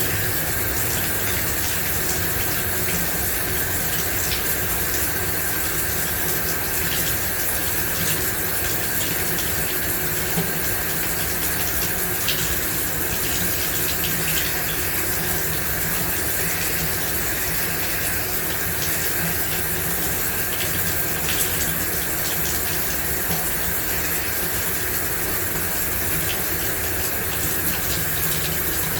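Shower running steadily: an even rush of water spraying and splashing, with small splash ticks scattered through it.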